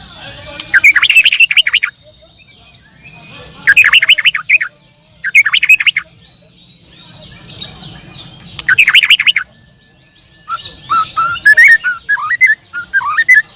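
Songbird singing in loud bursts of rapid repeated notes, each burst about a second long, four times. Near the end it switches to a longer, varied warbling phrase.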